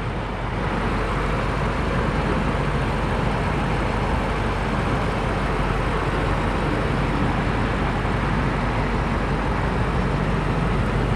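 2021 BMW X5 M Competition's twin-turbo V8 idling steadily, a constant low hum under an even rush of noise.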